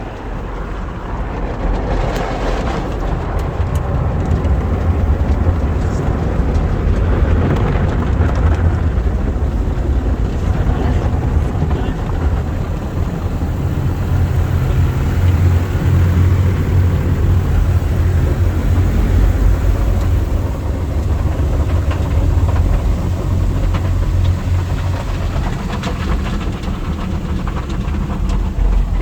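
Soft-touch tunnel car wash working on the car, heard from inside the cabin: a loud, continuous wash of water spray and scrubbing cloth brushes over a low steady rumble, with scattered small knocks.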